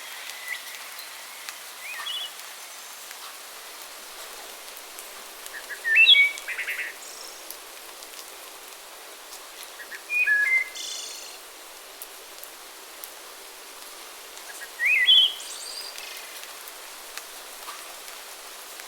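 Songbirds singing short chirping phrases about every four seconds, the loudest around six, ten and fifteen seconds in, over a steady background hiss.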